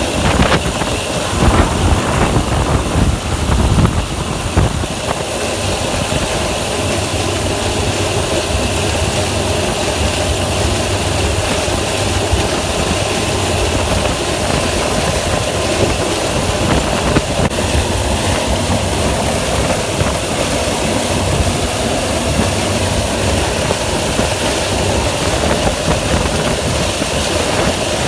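Preet 987 combine harvester running steadily as it works through maize: a continuous drone of diesel engine and threshing machinery, a little uneven and louder in the first few seconds.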